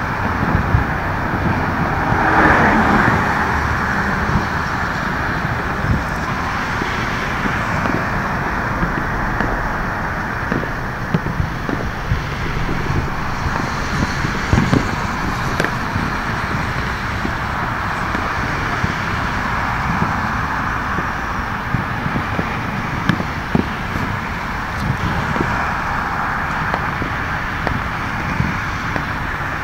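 Distant fireworks popping and banging across the city at irregular intervals, over a steady rush of road traffic, with a louder swell of traffic about two to three seconds in.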